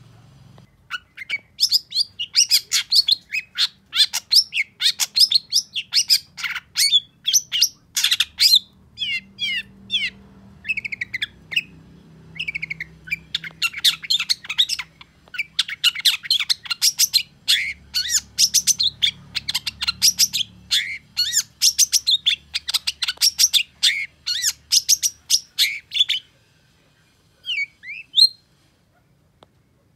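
Long-tailed shrike (cendet) singing in fast runs of sharp chattering notes, which stop about 26 s in, followed by a few short notes near the end.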